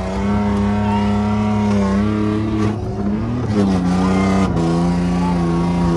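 LS V8 engine of a drift car held at steady high revs, with the pitch dropping briefly about halfway through, as on a throttle lift, before it comes back on.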